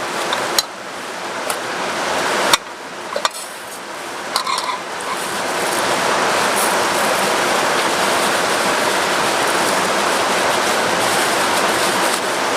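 Heavy rain as a steady hiss, growing louder and denser about halfway through, with a few sharp knocks early on.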